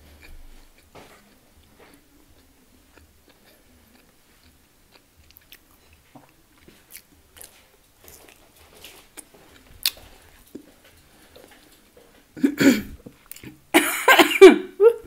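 A person chewing a piece of crispy rendered pork fat close to the microphone, in faint scattered clicks, then a few loud coughs near the end as food goes down the wrong way.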